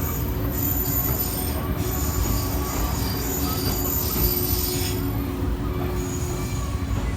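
SL Yamaguchi steam train pulling out, its wheels squealing high on the rails over a steady low rumble of the moving train; the squeal dies away about five seconds in.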